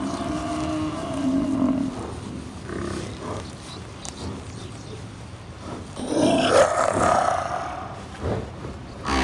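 Lions roaring and growling, with a louder, drawn-out call that rises and falls about six seconds in.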